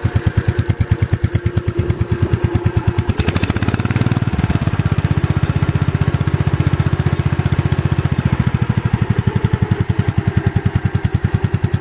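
Gravely tractor's engine idling, an even chug of exhaust pulses about ten a second. About three seconds in there is a brief rush of noise, and the exhaust note then turns deeper and fuller.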